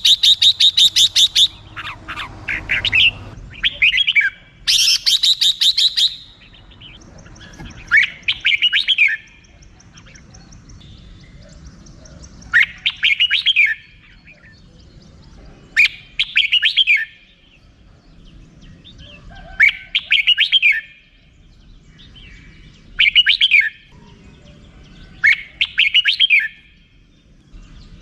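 Red-whiskered bulbul calling. It gives a fast chattering run of 'rik' notes near the start and again about five seconds in, then short whistled phrases every few seconds.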